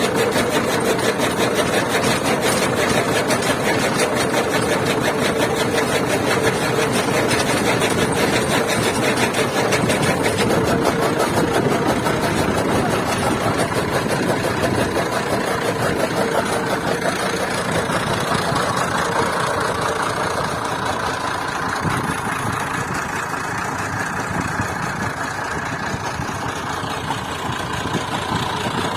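Massey Ferguson 240 tractor's diesel engine running steadily with a fast, even machine rhythm as it drives a chaff cutter chopping fodder. It grows a little quieter in the last third.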